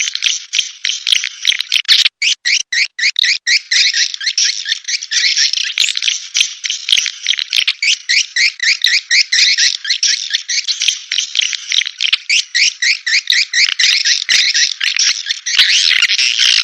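Swiftlet lure call (SP walet): a recording of edible-nest swiftlet twittering played back, a dense, continuous chatter of rapid high chirps, many per second, used to draw swiftlets into a nesting house.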